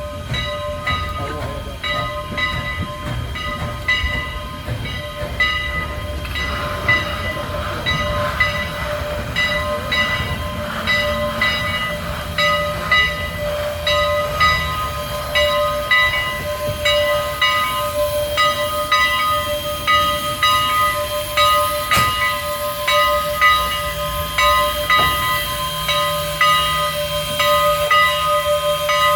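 Steam locomotive's bell ringing steadily, struck about twice a second, over a low rumble from the engine as it moves slowly around the train to couple on.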